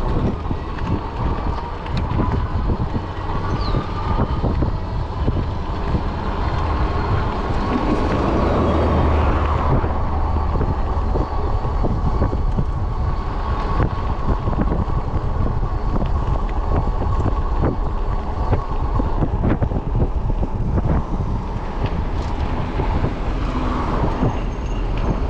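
Ecotric 20-inch folding fat-tire e-bike under way: rolling and drive noise with heavy wind rumble on the microphone. A steady whine runs through most of it and fades out near the end.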